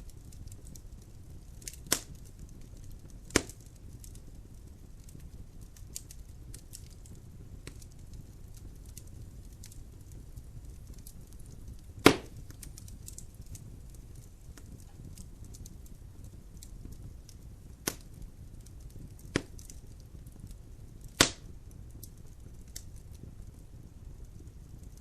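Wood logs burning in a fireplace: a low steady fire rumble with scattered small crackles and a few sharp pops, the loudest about halfway through.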